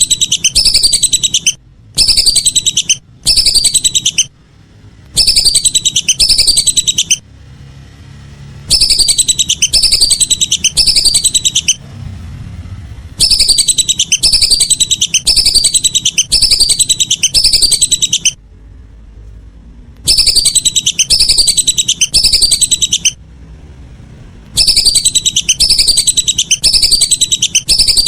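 Whistling ducks (belibis) calling: loud bursts of rapidly repeated high whistles, each note sliding downward, several seconds of calling broken by short pauses.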